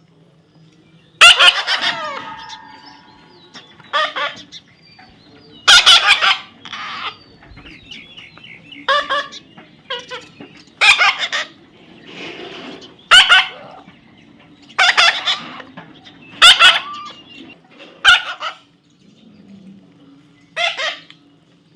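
A parrot giving short, harsh, loud calls over and over, roughly one every one to two seconds, over a faint steady low hum.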